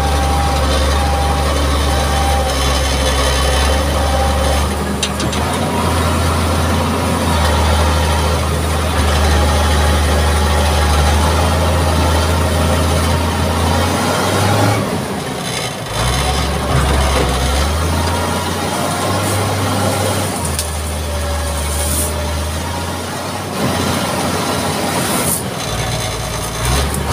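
Mitsubishi MG330 motor grader's diesel engine running as the machine works, a steady low drone that rises and falls in strength every few seconds.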